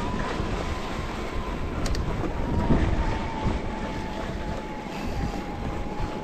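Wind buffeting the microphone and tyres rumbling over a trail on a mountain bike ride, with a thin steady whine throughout.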